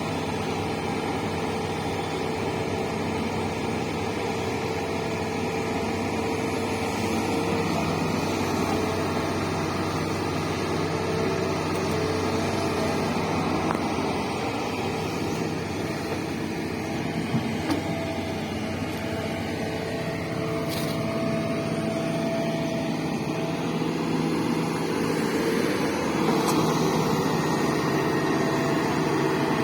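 Diesel engine of a heavy earthmoving machine running steadily as it works, its note shifting now and then.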